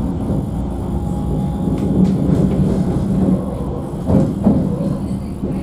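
Alstom Citadis tram running on rails with a steady low hum, and two short knocks a little after four seconds in.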